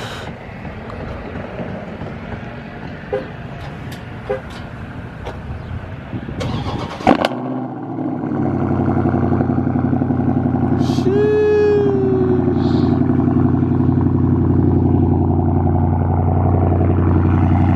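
2021 Dodge Charger Scat Pack's 6.4-litre 392 HEMI V8, with its mid muffler deleted, cold-started: a few clicks, then the starter about seven seconds in. The engine catches, grows louder and settles into a loud, steady idle.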